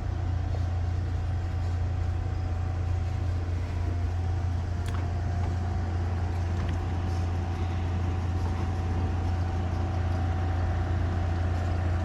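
Steady low hum and rumble inside a 1956 Pullman-Standard passenger railcar, with a faint thin steady tone above it.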